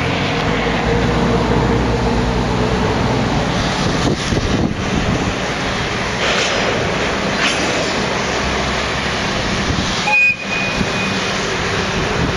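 Diesel freight train passing: a locomotive engine's low steady drone for the first few seconds, then the continuous rumble of the train rolling by, with a brief high squeal about ten seconds in.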